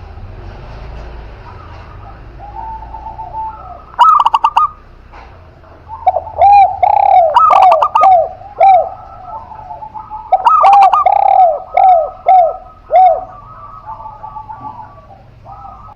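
Doves cooing: a short loud burst of coos about four seconds in, then a long run of evenly repeated falling coos from about six to thirteen seconds in, with fainter cooing behind them.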